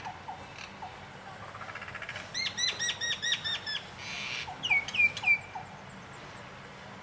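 Birds calling: one bird gives a fast run of about eight repeated chirps, a short buzzy note, then three loud down-slurred whistles. A second bird answers with short, softer, lower notes.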